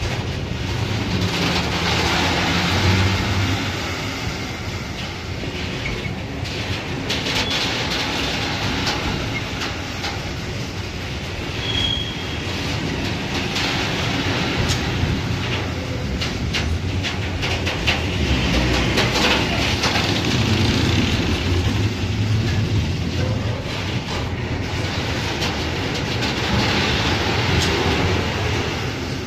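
Train running along the track, its wheels clattering over the rail joints, with a brief high wheel squeal about twelve seconds in.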